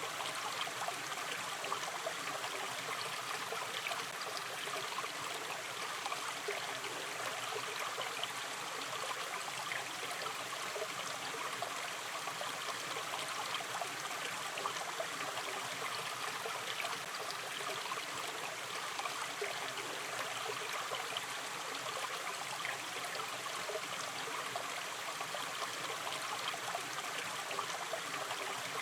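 Shallow river stream running steadily, with continuous babbling and small trickles over the water's surface.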